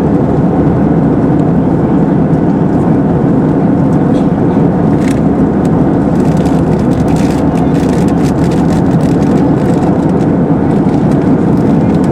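Steady roar of airflow and engines inside the cabin of an Airbus A320-232 in flight, with faint clicks and rattles in the second half.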